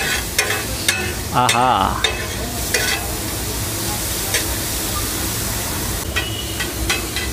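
Chopped vegetables and spices sizzling on a large flat tawa griddle, with a metal spatula scraping and clacking against the griddle now and then as they are stirred.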